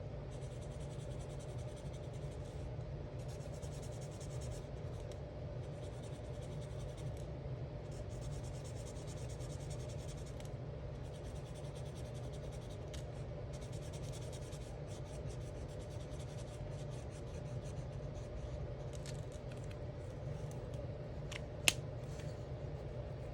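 Alcohol marker tips stroking across colouring-book paper in repeated short, scratchy strokes, over a steady low hum. A single sharp click comes near the end.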